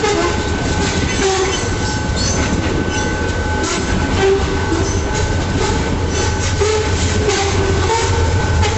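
Freight train rolling past: a steady low rumble with wheels clicking over the rails, and a thin steady high whine.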